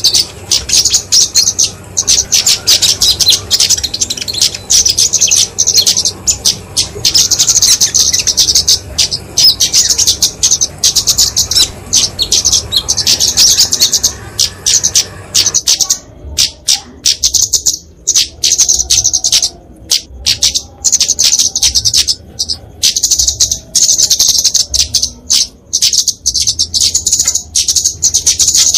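Flowerpecker (kemade) fighting calls: rapid, high-pitched chips and trills repeated almost without pause. About halfway through, the low background hiss drops away, as at a splice in the recording.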